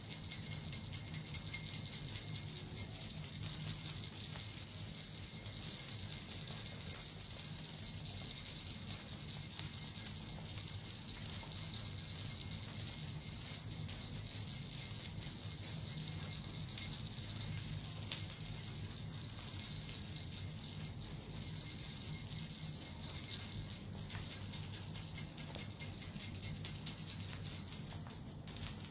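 Japanese suzu bells and a metal rattle shaken continuously in a fast, even jingle. A high steady ringing tone under the jingling stops just before the end.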